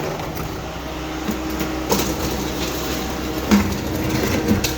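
Heavy equipment's engine running steadily, with a few sharp knocks and clanks over it.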